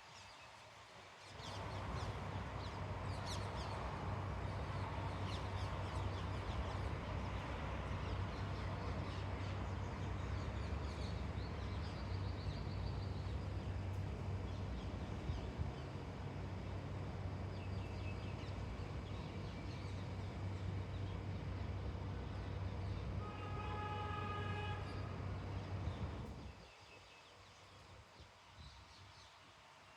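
A motor vehicle running close by: a steady low engine hum starts about a second in and cuts off suddenly near the end, with a brief pitched horn-like tone shortly before it stops. Birds chirp in the first few seconds.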